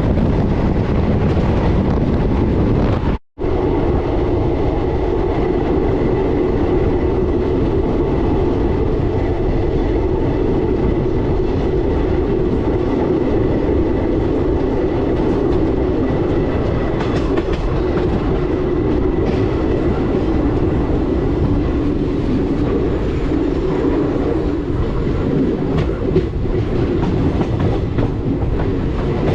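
Passenger train running along the track at speed: a steady rumble of wheels on rail with a clickety-clack over the rail joints. The sound cuts out completely for an instant about three seconds in, then resumes.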